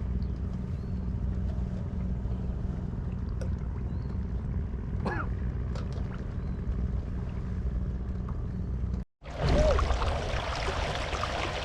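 Steady low rumble of wind on the microphone and water around a fishing kayak, with a few small clicks. About nine seconds in the sound cuts out for a moment and comes back as louder splashing, trickling water.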